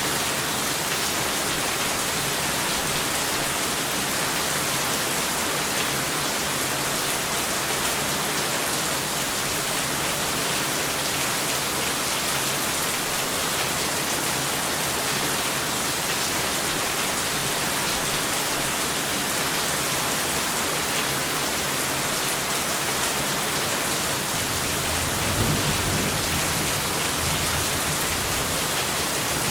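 Steady, heavy rain falling, an even hiss that does not let up, with a low rumble of distant thunder swelling near the end.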